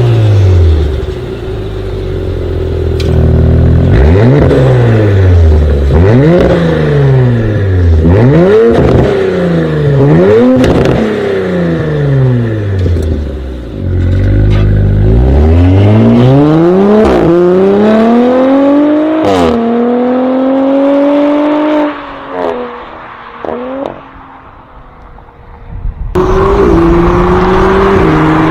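Audi RS 5 engine revved again and again, its pitch rising and falling in quick blips, then climbing in one long pull to high revs. It then drops back to a quieter idle with a few short blips.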